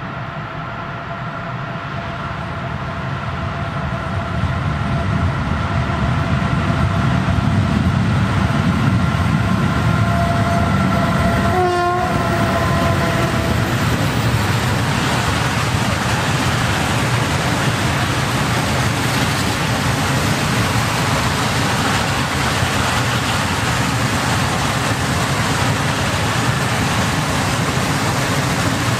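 Diesel locomotive hauling a long train of open freight wagons approaching and passing: a rumble grows over the first few seconds, with steady high tones from the locomotive that drop in pitch as it goes by about twelve seconds in. Then the wagons roll past with a steady rumble and rush of wheels on rail.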